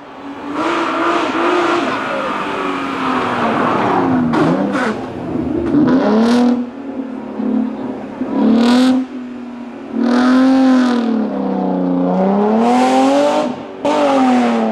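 BMW 325i's straight-six racing engine revving hard on a hillclimb run, its pitch rising and dropping over and over as it accelerates, lifts and shifts through the corners, with several sharp louder surges of throttle.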